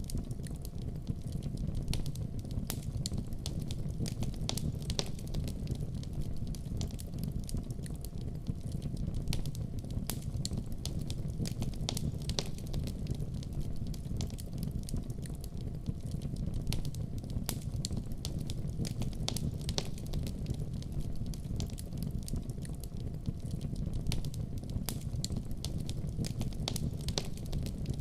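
Wood fire burning in a fireplace: a steady low rumble of flames with frequent sharp crackles and pops scattered at irregular intervals.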